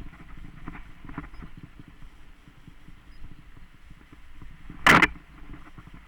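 Mountain bike rattling and jolting over a rough dirt trail, with one loud sharp knock about five seconds in.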